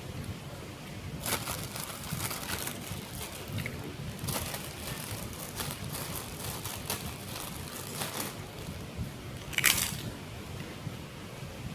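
Close-up mukbang eating of gado-gado: crisp bites and chewing crunch in short bursts, about eight times, the loudest near the end.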